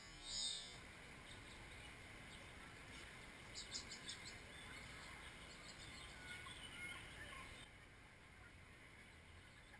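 Faint, high bird chirps over a quiet steady hiss, with a quick run of chirps a few seconds in.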